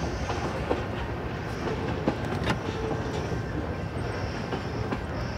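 Freight train's last cars rolling through a road crossing: a steady rumble of steel wheels on the rails, broken by a few sharp clanks as wheels strike the rail joints.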